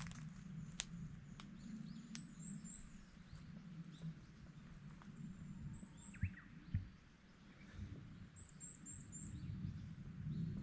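Faint birds chirping, with short high chirps in small runs, over a steady low hum. There are a few light clicks and two soft thumps about six seconds in.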